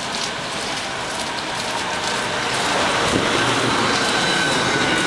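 A VR Sm4 electric commuter train arriving at a platform. Its running noise grows louder as it draws alongside, and thin high steady tones come in about three and a half seconds in as it slows.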